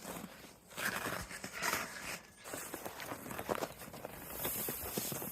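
Irregular crunching and rustling of footsteps and hay being handled.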